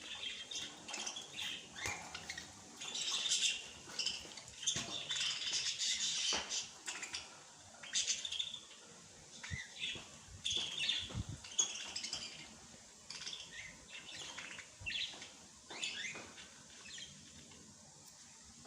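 Small birds chirping and twittering: many short, high calls overlapping in quick, irregular succession.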